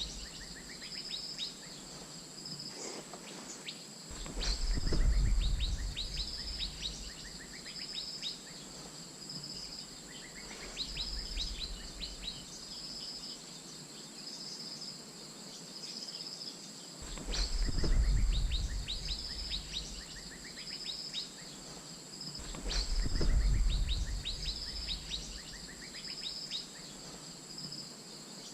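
Asian fairy-bluebird calls used as a luring call: short high notes repeated about once a second, mixed with quick series of falling whistled notes. A steady high insect drone runs underneath, and low rumbles come a few times, loudest about 5, 18 and 23 seconds in.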